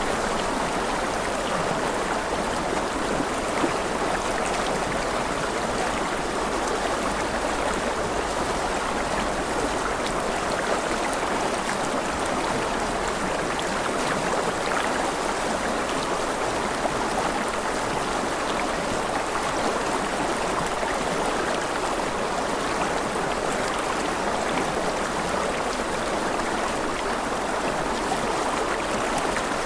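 Steady rushing and gurgling of running water in a stream, unbroken and even in level.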